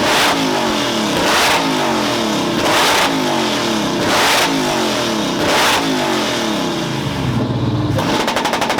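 A car engine is revved hard again and again, about five surges roughly a second and a half apart. Near the end it switches to a rapid, even string of exhaust pops, typical of a two-step launch limiter.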